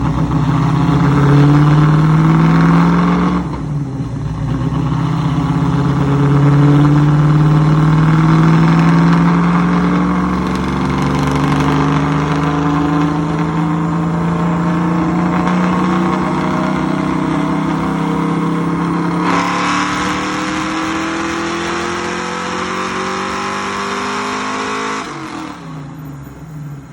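Car engine, a fresh build, at full throttle on a dyno pull, its revs climbing steadily in pitch with a brief dip about three and a half seconds in, then backing off near the end. The run shows the engine making well under its expected power.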